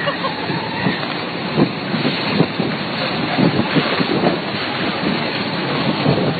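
Storm wind blowing hard across the microphone in gusts, with a dense run of short knocks and rattles.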